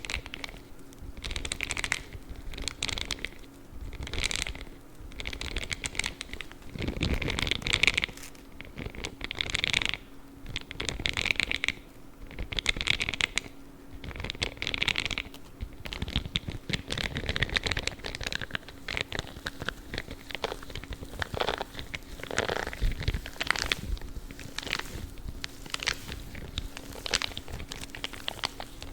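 Spiky gloves being rubbed and scratched in a steady run of short, scratchy rustling strokes, about one or two a second.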